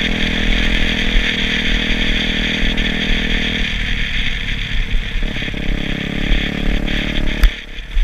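Motorcycle engine running steadily over a constant hiss, its note shifting about four seconds in; the sound breaks off abruptly with a click near the end.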